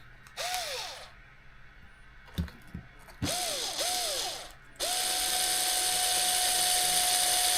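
Small electric screwdriver driving screws on an RC car: its motor is run in three short bursts that spin up and wind down, with a couple of light knocks between them, then runs steadily from about five seconds in.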